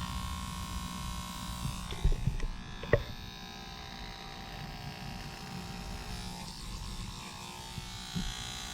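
Electric shaver buzzing steadily while shaving a face, with a few short knocks about two and three seconds in.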